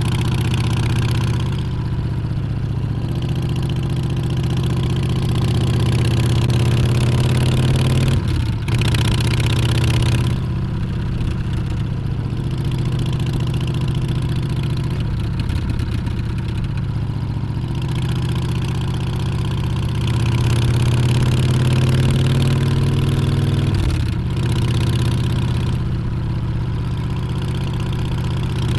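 Harley-Davidson Street Bob's Milwaukee-Eight 114 V-twin running under way on the road, its revs climbing steadily. There are two short breaks where the engine note drops back, at about a third of the way through and near the end, like gear changes.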